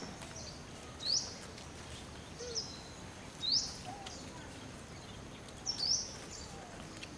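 A bird giving short, sharp rising chirps, one every second or two, over a steady outdoor hiss, with a few faint lower calls in between.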